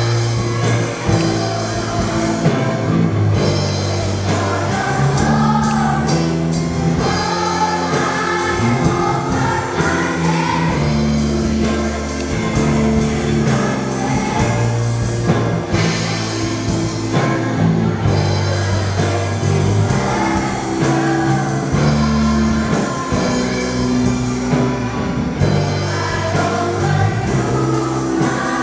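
Sunday school children's choir singing a hymn together over a steady instrumental accompaniment of long held chords.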